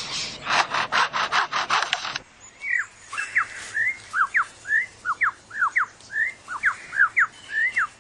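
Superb lyrebird mimicking a chainsaw: rasping strokes about five a second, then about two seconds in it switches to a rapid run of clear whistled notes that sweep up and down in pitch.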